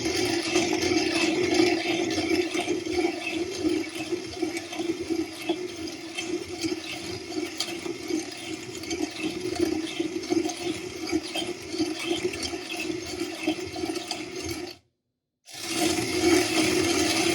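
ROK manual burr coffee grinder being cranked by hand, crunching and rattling steadily as it grinds coffee beans. It stops abruptly for a moment near the end, then starts grinding again.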